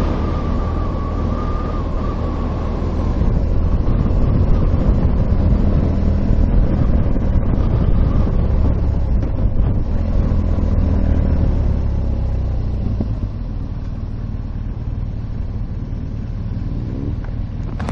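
Motorcycle engine running at road speed with steady wind rush. It gets louder about three seconds in and eases off about thirteen seconds in.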